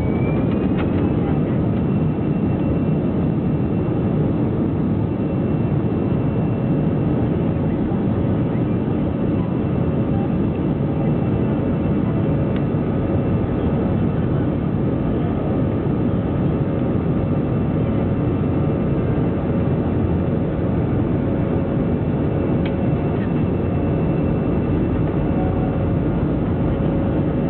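Airbus A321-200 jet engines running at high takeoff thrust, heard from inside the passenger cabin as a steady, loud rush with a constant whine. A rising whine levels off about a second in.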